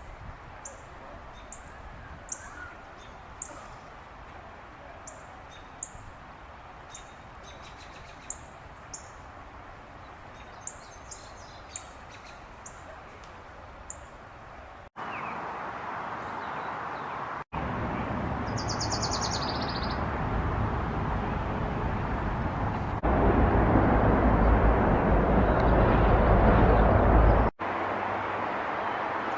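Short, high bird chirps repeating every half second or so against a quiet outdoor background. About halfway through the sound cuts to a steady rushing noise, with one brief high bird call in it, and it grows loudest near the end.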